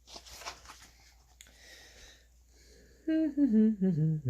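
A brief soft noise, then about three seconds in a man's voice makes a wordless run of short notes stepping down in pitch.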